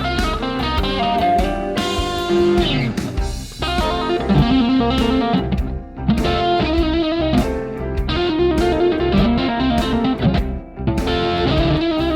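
Fender Deluxe Stratocaster electric guitar with N3 Noiseless stacked-humbucker pickups, playing bluesy single-note lines and chords through an amp, with brief gaps about six and eleven seconds in. A steady low rhythmic pulse runs underneath.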